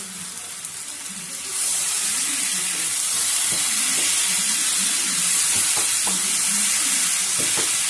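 Spiced potatoes sizzling in hot oil in a nonstick kadai as they are fried dry with masala. About a second and a half in, the sizzle grows louder as a silicone spatula starts stirring and turning them, with a few soft knocks of the spatula against the pan.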